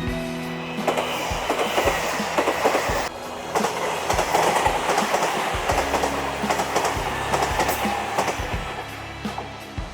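A train passing close by at speed: a loud rush of wheel and rail noise with wheels clacking over the rail joints, tailing off near the end.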